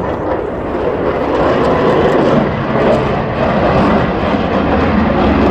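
A fixed-wing aircraft flying past, its engine noise a loud, steady rush.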